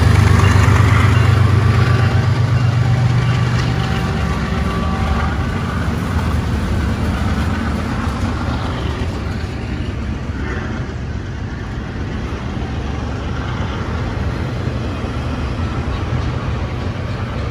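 BNSF diesel freight locomotive's engine running as it passes, its low rumble fading over the first few seconds. Then the steady rolling rumble and wheel-on-rail noise of double-stacked intermodal container cars going by.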